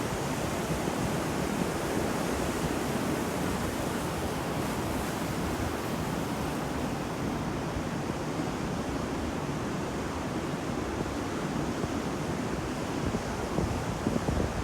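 Sea waves washing onto a shore: a continuous rushing surf, swelling a little near the end.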